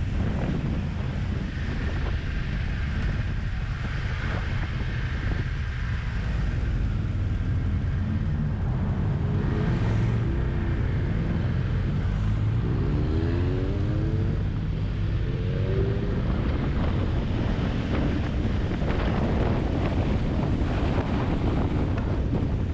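Wind rushing over the microphone of a moving motorcycle, with the engine running underneath and rising in pitch several times in quick succession around the middle as it accelerates.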